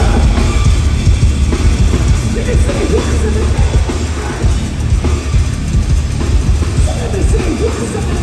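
Heavy metal band playing live, loud, with dense, fast drumming.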